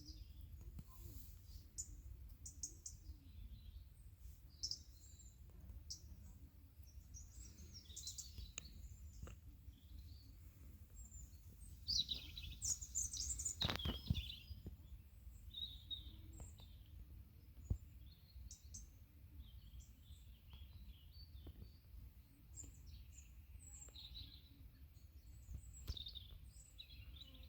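Small birds chirping and calling in woodland, faint, with short high calls throughout and a louder cluster of calls about halfway through. A single sharp click comes just after the loudest calls, over a steady low rumble.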